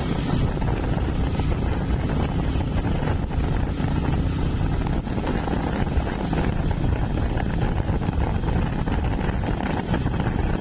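Wind rushing over the microphone with the steady rumble of a motorcycle under way, at an even level throughout.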